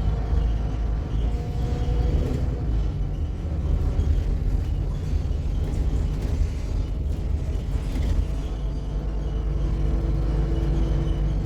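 Scania K280UB city bus driving, heard from inside the cabin: a steady engine and road rumble with faint rattles.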